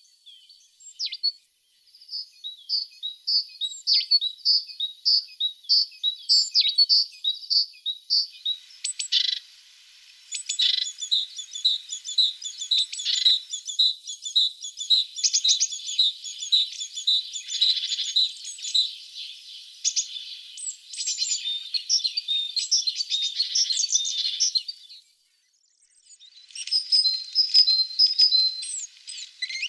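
Blue tit singing: long phrases of quick, high, thin notes repeated several times a second, with short pauses about a second in and near the end.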